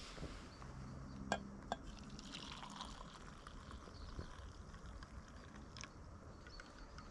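Water being poured, with a couple of sharp clinks of camp cookware about a second and a half in.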